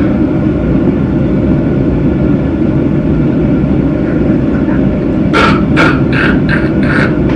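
Steady low droning hum, like a motor or fan, with a quick run of about six short, sharp sounds about five seconds in.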